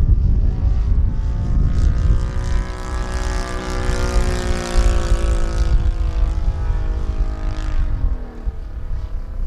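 Saito FG-50 four-stroke gasoline engine flying an RC aerobatic Extra 300, its propeller note swelling and shifting in pitch as the plane passes, then dropping sharply about eight seconds in as the throttle comes back, before rising again near the end.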